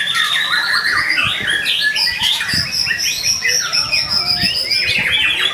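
White-rumped shama (murai batu) singing a fast, varied song: long clear whistles, one rising at the start and a high one held for about two and a half seconds mid-way, among quick chirps and rapid trills.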